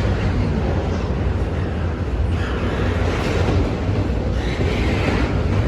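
Norfolk Southern intermodal freight train's cars rolling past: a steady, loud rumble of steel wheels on rail, with a rushing hiss that rises and falls.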